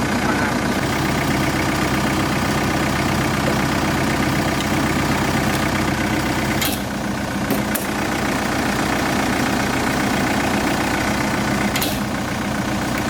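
Excavator engine running steadily, with a slight dip in level about seven seconds in and again near the end.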